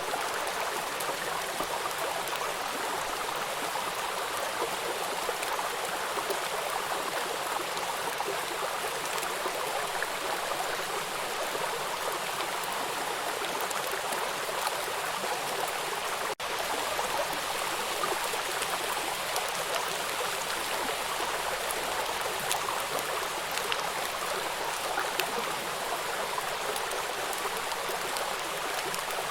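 Water rushing over rocks at a small river waterfall: a steady, even rush with little low end. It drops out for an instant about halfway through.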